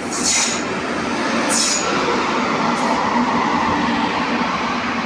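WAP-7 electric locomotive and its passenger coaches passing at speed: a steady, loud rush of wheels on rail. Three short high hisses come at about one-and-a-quarter-second intervals in the first three seconds.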